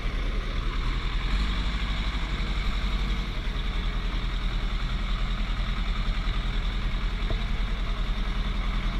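A heavy vehicle's engine idling steadily with a low, even rumble.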